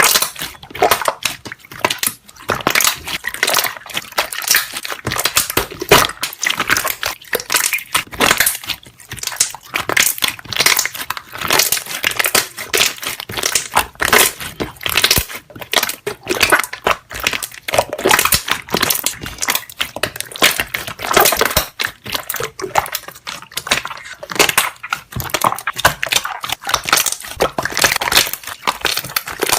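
Slime being squeezed and kneaded, with a continuous stream of rapid crackling pops from trapped air bubbles.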